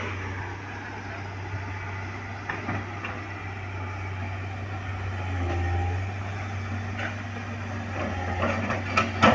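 A heavy vehicle engine running steadily with a low drone, with a few short knocks and clatters, the loudest near the end.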